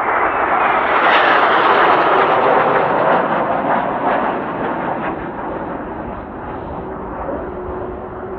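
Kawasaki T-4 jet trainers of the Blue Impulse team flying past: a loud jet rush that builds to its peak about a second or two in, then slowly fades as the aircraft move away.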